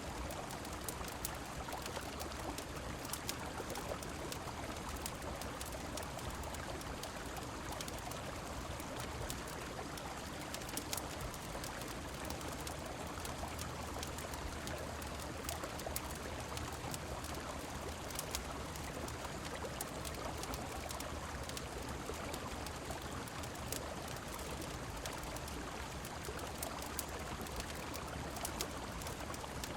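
Steady rushing of river water and rain, with frequent small sharp crackles scattered through it.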